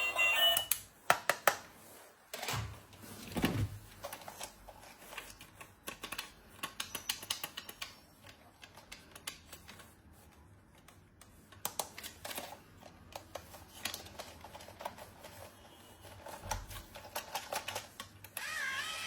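Irregular light clicks and taps of small plastic toy pieces and packaging being handled, with a quieter stretch in the middle.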